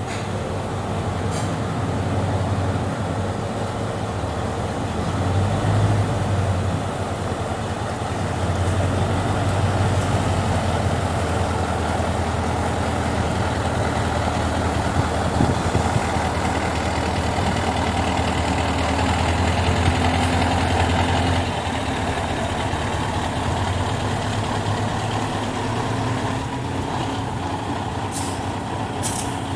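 Scania 143H truck's V8 diesel engine running steadily, swelling a little for a few seconds twice, with short hisses about a second in and near the end.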